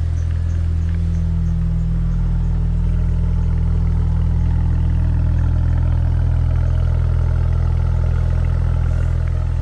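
BMW 335i's N54 twin-turbo inline-six idling steadily through an aftermarket exhaust with resonators, catless downpipes and 4-inch tips: a loud, even, low exhaust drone.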